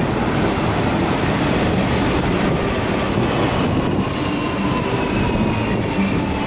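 A Hanshin 5700 series electric commuter train runs past close by, with a loud, steady rumble of wheels on the rails. In the second half a faint thin whine comes in and falls slightly in pitch.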